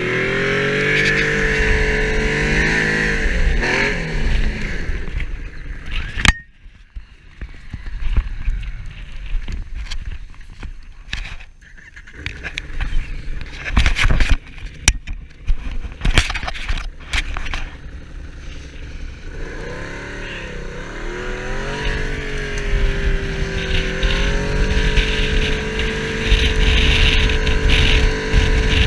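Snowmobile engine running and changing pitch with the throttle, then falling back for a stretch broken by sharp knocks, before revving up again and running steadily near the end.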